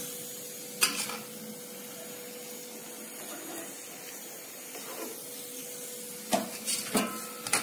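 Gulab jamuns frying in hot ghee with a steady sizzle, while a steel ladle clinks against the frying pan and the steel syrup pot: once about a second in and several quick knocks near the end.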